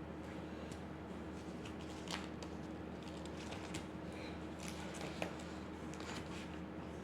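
Pen strokes on paper: scattered short scratches and light taps of drawing, over a steady electrical hum.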